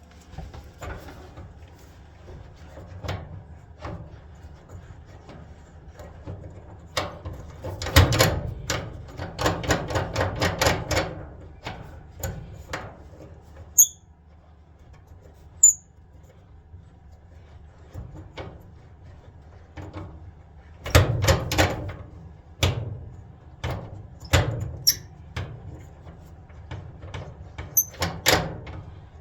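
Clothes dryer squeaking loudly in two runs of quick, rapid squeaks, about a third of the way in and again past two thirds, with scattered single squeaks and creaks between.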